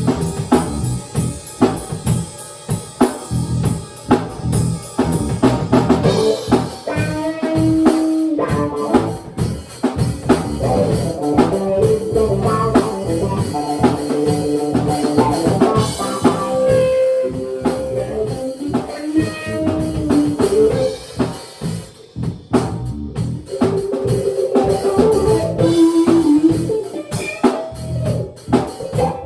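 An improvised band jam: a drum kit keeps up a busy beat of bass drum and snare, with held melodic notes over it.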